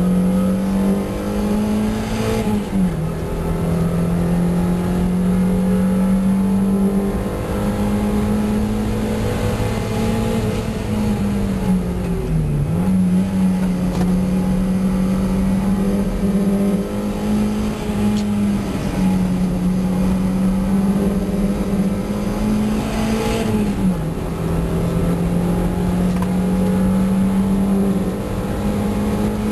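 A 1990 Mazda MX-5's four-cylinder engine running at high revs under hard track driving. The revs drop sharply and briefly about three seconds in, near the middle and again about twenty-four seconds in, then climb back each time.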